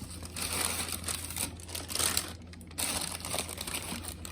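Rustling and crinkling of sneaker packaging being handled, with small uneven clicks and scrapes.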